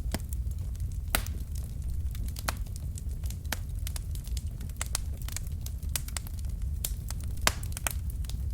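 Wood fire burning in a fireplace: irregular sharp crackles and pops from the logs over a steady low rumble of the flames, with a louder pop about a second in and another near the end.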